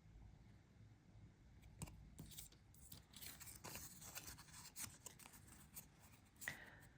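Faint rustling and small taps of card-stock paper pieces being handled, starting about two seconds in and thickest in the middle.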